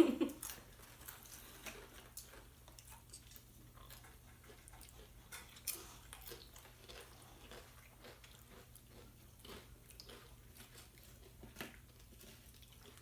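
Someone chewing crunchy chips with salsa, with irregular crisp crunches and mouth sounds close to the microphone.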